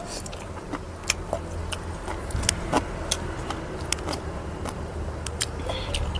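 Eating sounds: scattered sharp clicks and taps at irregular intervals over a steady low hum.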